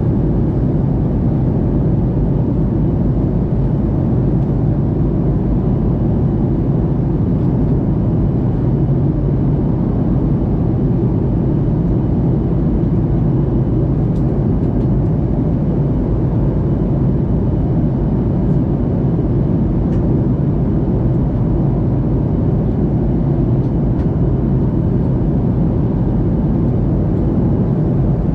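Steady low rumble of an airliner in flight, heard inside the cabin: engine and airflow noise that holds unchanged throughout.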